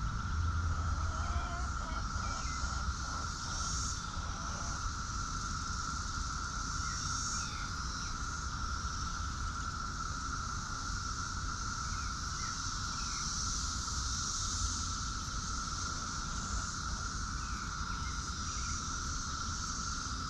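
Steady outdoor insect chorus: one constant high drone, with a higher buzzing that swells and fades every few seconds. Faint short chirps from birds or chickens are scattered through it.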